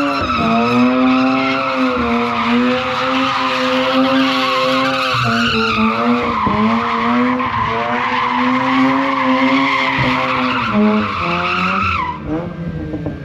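Mazda RX8's Renesis twin-rotor rotary engine held at high revs through a burnout, with the rear tyres spinning and squealing against the pavement. The revs waver slightly, then near the end the revs fall and the tyre squeal stops.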